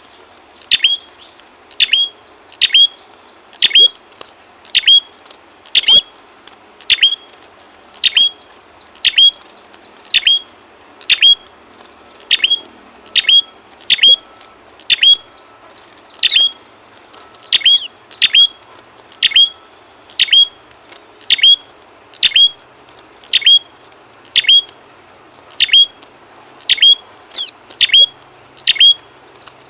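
Loud, sharp call of the small songbird known in Indonesia as prenjak kepala merah, repeated about once a second. Each call is a quick high note that sweeps downward. It is a lure recording played to draw the birds in.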